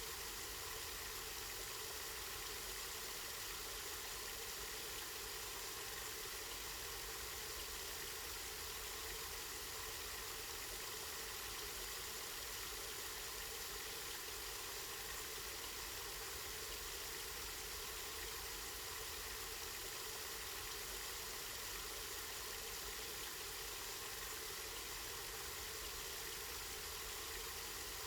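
Water running steadily from a spring in a continuous, even splash and rush.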